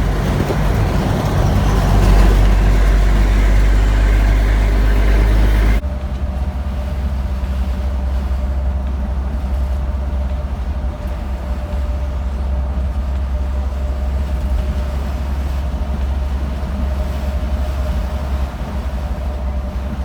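Steady low rumble of a moving vehicle, with an abrupt cut about six seconds in to a slightly quieter rumble carrying a faint steady hum.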